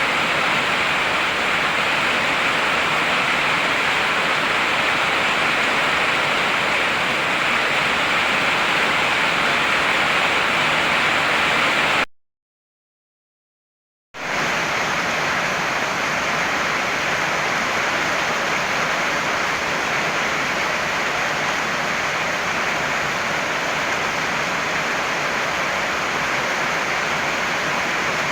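Heavy rain pouring steadily, a dense even hiss. About halfway through it cuts out to silence for about two seconds, then starts again.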